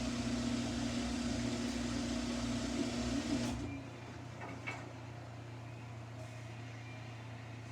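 Samsung washing machine starting its spin: a steady motor hum and drum whir that drops off abruptly about three and a half seconds in to a quieter low hum, with a couple of faint clicks.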